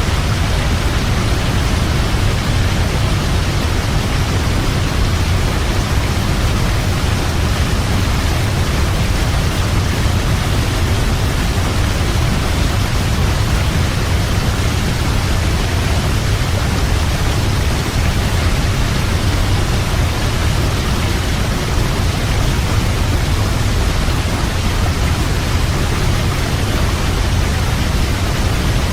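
Waterfall: falling water rushing in a steady, unbroken roar, heaviest in its deep low rumble.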